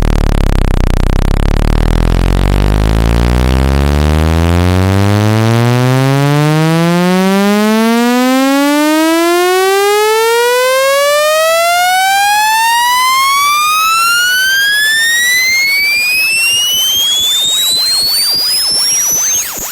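Electronic speaker-cleaning test tone sweeping steadily upward in pitch, from a deep buzz with many overtones to a single high whistle near the end. It is played at full volume to shake water and dust out of a phone speaker.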